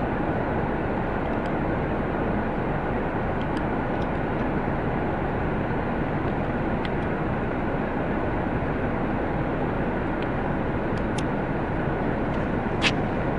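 Steady, even rumble with no clear pitch, with a few faint ticks and one sharper click near the end.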